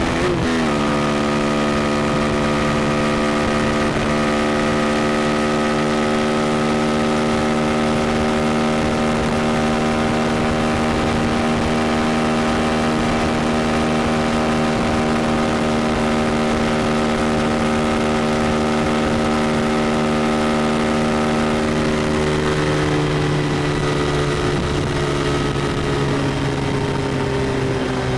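KTM Duke 390's single-cylinder engine running at a steady high speed. Its pitch drops sharply right at the start, holds steady for about twenty seconds, then falls slowly near the end.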